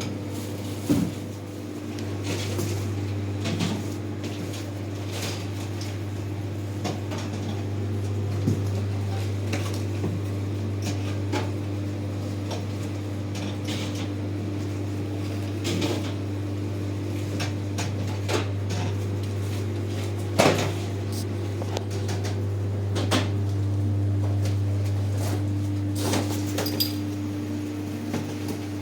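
Scattered knocks, clicks and clatter of goods and boxes being handled and set down, the sharpest knock about twenty seconds in, over a steady low hum.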